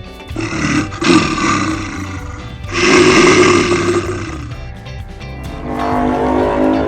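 Loud roars, one about a second in and a longer one around three seconds in, over background music with a steady beat.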